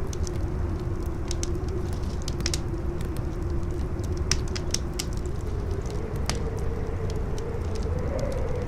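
Campfire crackling, with scattered sharp pops from the burning wood, over strong howling wind: a low rumble and a steady moaning tone that wavers and rises slightly in pitch after about five seconds.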